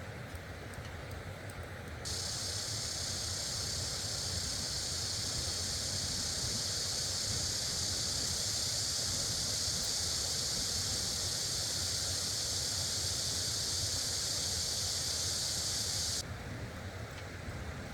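Steady rushing of a nearby stream, with a loud, even hiss that starts abruptly about two seconds in and stops abruptly near the end.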